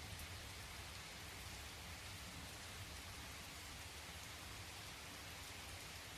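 Recorded rain falling steadily, an even hiss with a faint low rumble underneath.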